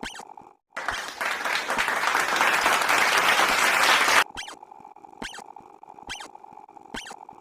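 A burst of applause, about three and a half seconds long, that starts and cuts off abruptly. Before and after it, a quieter looping sound effect plays: a steady tone with a sharp click roughly every 0.8 seconds.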